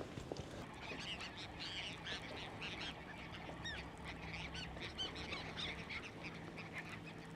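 A flock of gulls calling, many short high calls overlapping one another without a break.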